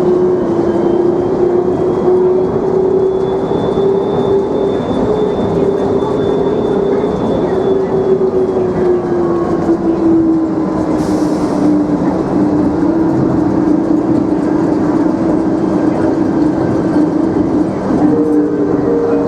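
DFW Skylink automated people-mover train running, heard from inside the car: a steady rumble under a motor whine that rises slightly and then falls back partway through, with a brief hiss about eleven seconds in.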